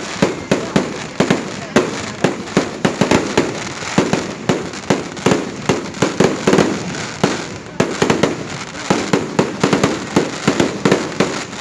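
Fireworks display going off in a dense barrage: sharp bangs several times a second, each trailing off in a crackle, with hardly a pause between them.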